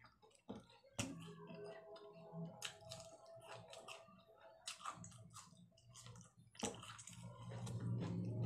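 Close wet chewing and mouth clicks of someone eating crisp cucumber and lettuce, with lettuce leaves crinkling as they are torn and handled.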